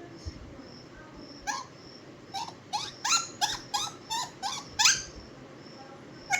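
Pet parrot calling: a quick run of about nine short, sharply rising chirps, starting about a second and a half in.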